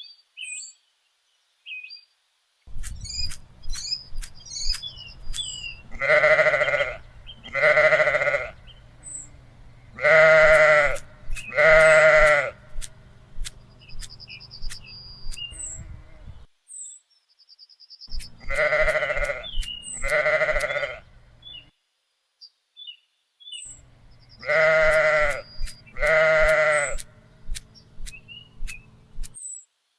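Bleating farm animals: four pairs of wavering calls, each about a second long, the two calls of a pair about a second and a half apart. Faint bird chirps and scattered sharp clicks run between them over a low steady hum.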